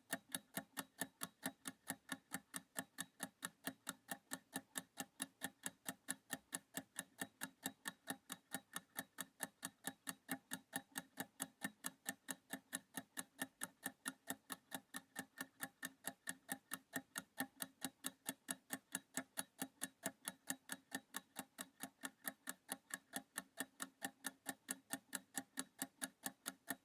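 Clock-ticking sound effect counting down a quiz timer: even, light ticks at about three a second, with no change in pace.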